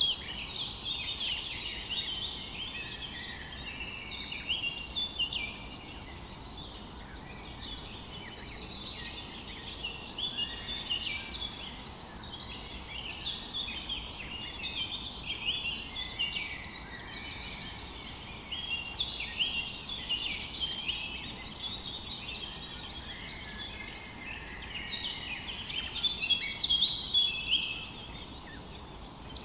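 Chorus of several songbirds chirping and trilling, a dense mix of short, high, overlapping notes that grows louder near the end.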